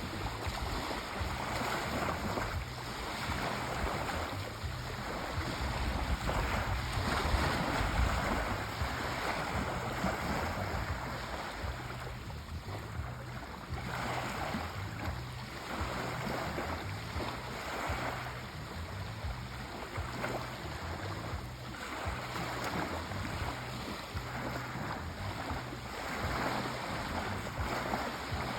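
Sea waves washing in and out, the surf swelling and easing every few seconds.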